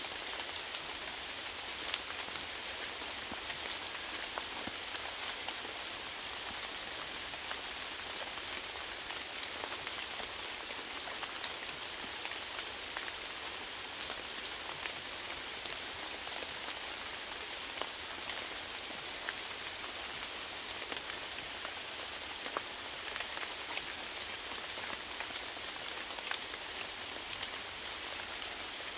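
Steady rainfall: a continuous even hiss of rain with many individual drops pattering on a surface.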